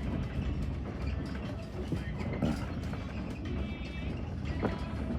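Steady low rumble of a passenger railway coach rolling along the track, with scattered clicks and knocks from the wheels and the car.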